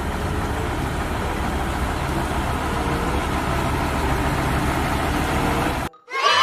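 Fire truck engine idling steadily with a low rumble, cutting off suddenly near the end.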